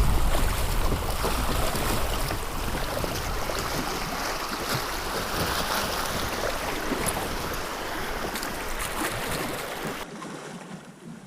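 Flowing river water: an even rushing hiss, with wind rumbling on the microphone at first. The sound drops off abruptly about ten seconds in.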